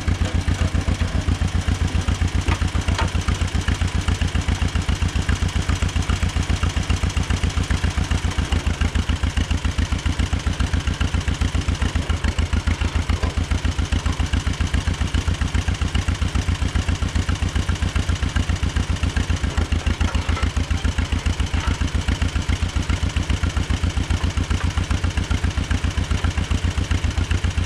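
Old farm tractor engine idling steadily with an even, rhythmic exhaust beat.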